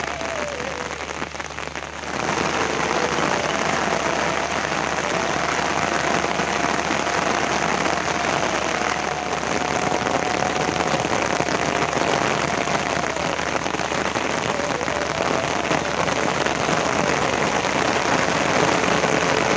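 Rain falling steadily, growing louder about two seconds in, with a faint thin tone underneath that drifts slightly in pitch.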